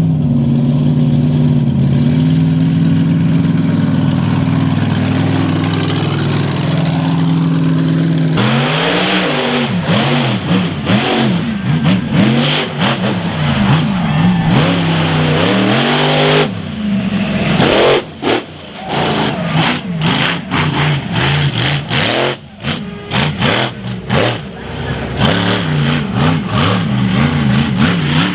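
Mega mud truck engine running loud and steady, then revved hard again and again from about eight seconds in, the pitch climbing and dropping with each rev and cutting out briefly several times.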